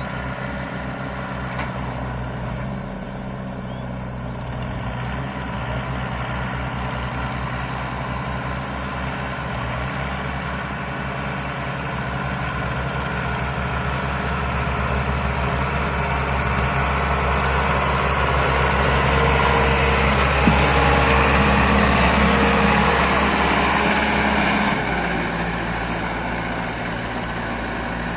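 Powertrac 60 CRDI tractor's common-rail diesel engine running under throttle. It gets steadily louder to a peak about three-quarters of the way through, then drops back near the end.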